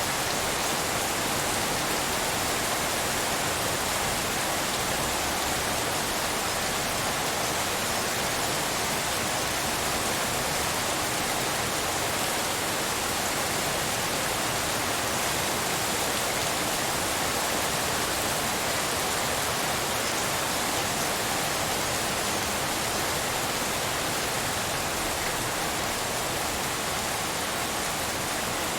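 Steady rainfall blended with pink noise: an even, unbroken hiss.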